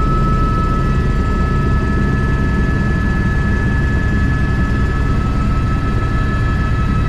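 Airbus H125 (AS350 B3) single-engine helicopter heard from the cockpit in flight: a steady, loud low rumble with fast rotor pulsing and a constant high turbine whine.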